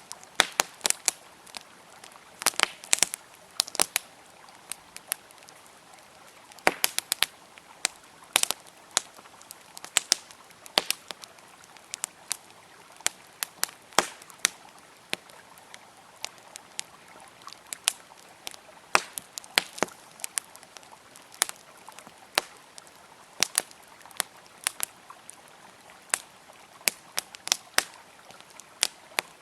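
Wood campfire crackling, with sharp irregular pops and snaps coming in clusters, over a faint steady rush of flowing river water.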